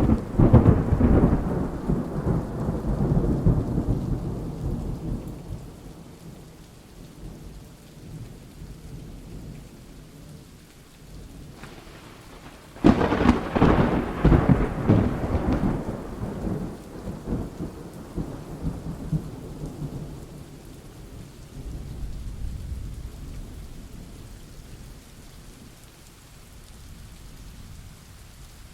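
Thunderstorm: steady rain with two peals of thunder. The first rumbles in right at the start and dies away over several seconds; the second begins with a sharp crack about halfway through and rolls off slowly.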